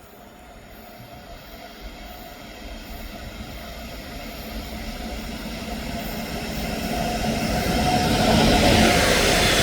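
A train approaching, its rumble growing steadily louder throughout as it nears, with a faint steady hum rising with it.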